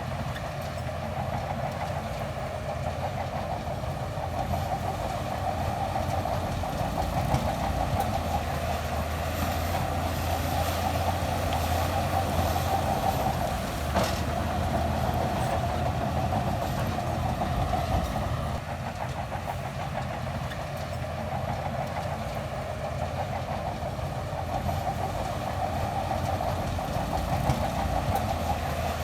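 Diesel engine of a Shantui DH17C2 crawler bulldozer running under varying load, with the clatter of its steel tracks. The engine gets louder from a few seconds in, eases off after about 18 seconds and rises again near the end, with one sharp knock about halfway through.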